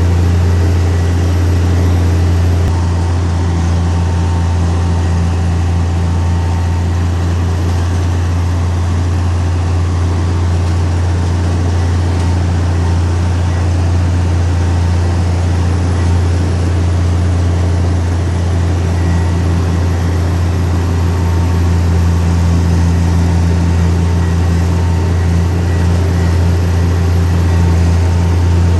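Heavy diesel engine of an earthmoving machine running steadily at constant speed, a deep hum with no revving or pauses.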